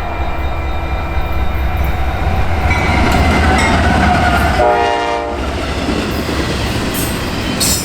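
Freight train rumbling past on the rails, with a short diesel locomotive horn blast about five seconds in; the rumble eases near the end.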